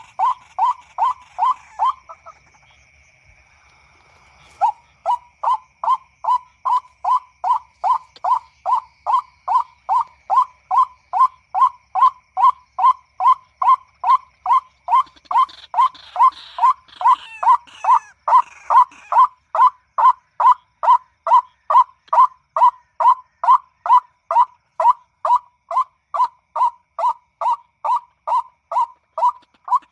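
White-breasted waterhen call: loud, evenly repeated 'kwak' notes at about two a second, stopping for about two seconds near the start and then running on without a break.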